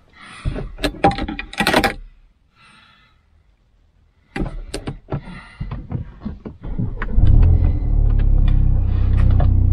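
A run of small clicks and knocks, then about seven seconds in the Ford Focus ST Mk4's engine starts: a loud flare of revs that settles into a steady idle.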